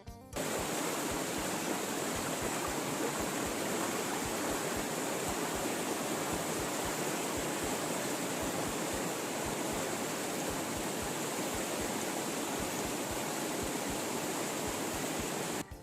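Steady rushing noise like flowing water, starting and cutting off abruptly.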